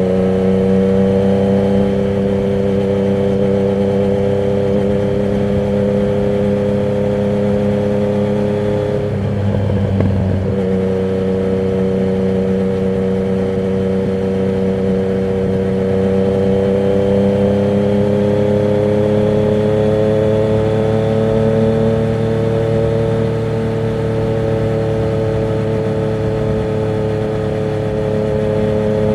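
Yamaha MT-09's inline-three engine running loud through a Termignoni exhaust with the dB killer removed, as the bike is ridden at a steady pace. About nine seconds in the note briefly breaks up, then its pitch climbs slowly and eases off slightly near the end.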